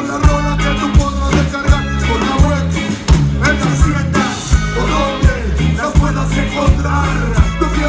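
A live band playing an instrumental passage of a Latin song, with a heavy steady bass line and a regular drum beat.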